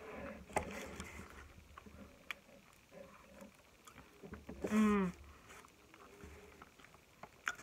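Quiet mukbang eating and mouth sounds: a few small clicks and smacks over a faint low hum, with a short hum from a voice falling in pitch a little past halfway.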